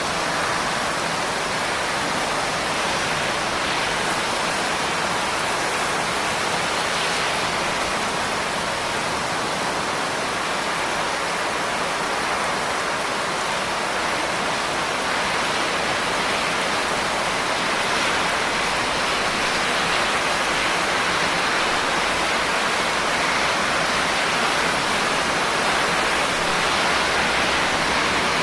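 Steady, dense rainfall: an even hiss of falling rain without distinct drops or breaks.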